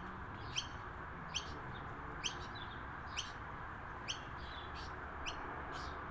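A bird giving a short, sharp, high chirp over and over, about once a second, with six calls in all, over a steady background hiss.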